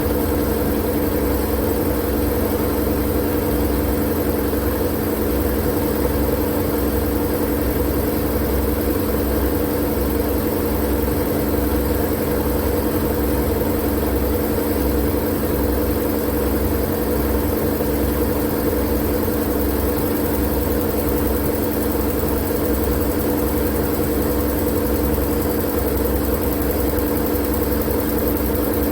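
Steady white-noise drone: a low rumble with a few constant humming tones and an even hiss above them, unchanging throughout.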